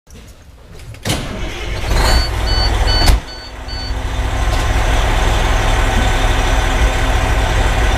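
A fire engine's Detroit Series 60 diesel heard from inside the cab, its low rumble rising sharply about a second in and then running steadily. A short series of about five high electronic beeps sounds about two seconds in, and a loud single thump comes just after three seconds.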